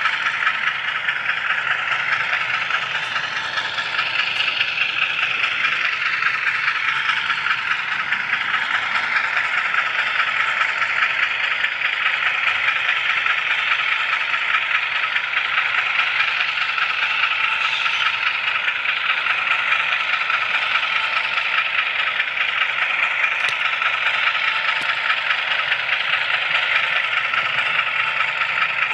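An HO scale model railroad camera car rolling along the track, heard from on board. Its wheels make a steady, even noise on the rails.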